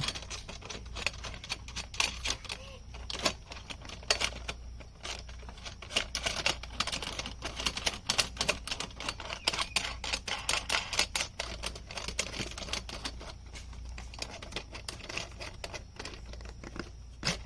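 Irregular clicking and light knocking of metal hardware as a nut is tightened down on the aluminium chainsaw mill frame.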